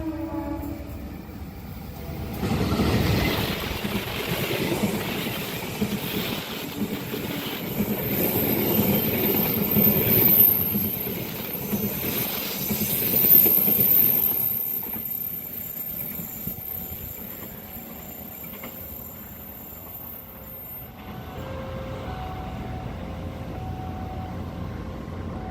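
A train running past over a curving track. Its wheels rumble, and a thin high-pitched wheel squeal comes with them, loudest around the middle, before the noise dies down about twenty seconds in.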